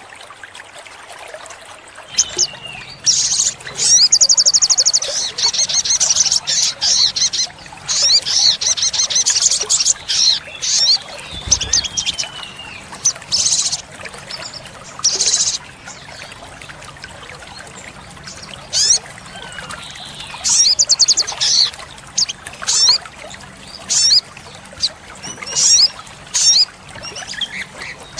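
Olive-backed sunbird singing: high, rapid trilling phrases and short sharp chirps in bursts, with a long fast trill from about three to eight seconds in and another about twenty seconds in.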